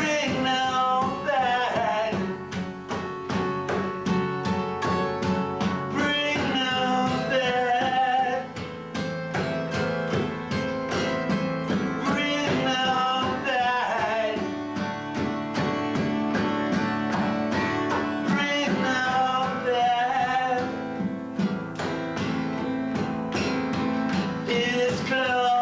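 A rock band rehearsing a song: guitar strummed in a steady rhythm, with sung phrases that come in about every six seconds, recorded through a basic VHS camcorder microphone.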